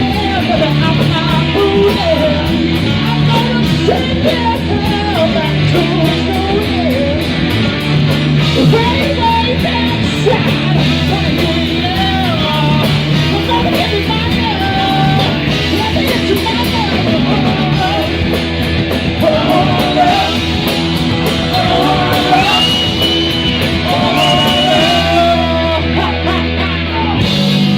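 Live rock band playing an instrumental passage: electric guitar with bending lead notes over steady bass and drums.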